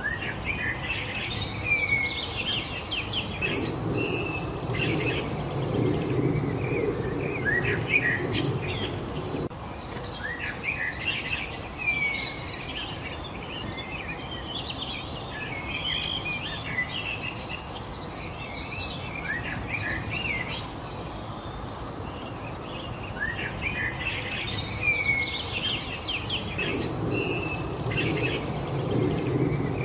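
Several songbirds chirping and singing together in quick, overlapping high calls, over a low background rumble that swells twice for several seconds.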